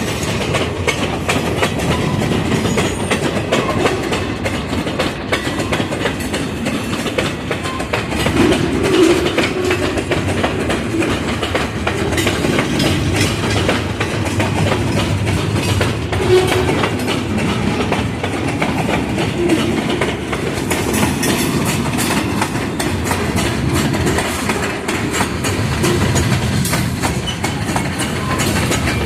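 Wisconsin Southern ballast train's cars rolling past, with a steady rumble of wheels on rail and a constant clickety-clack over the rail joints.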